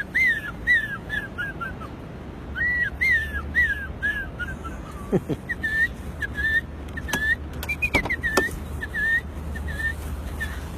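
A man whistling an imitation of birdsong: two runs of short chirps stepping down in pitch, then a string of evenly repeated short chirps, with a few sharp clicks in the middle.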